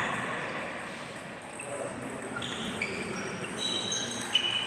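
Table tennis hall background noise with a few brief high squeaks in the second half and one sharp tick near the end.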